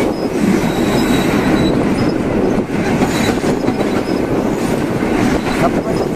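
Passenger train running on the rails: a steady loud rumble of wheels on track with rail clatter, and a few brief faint high-pitched wheel squeals.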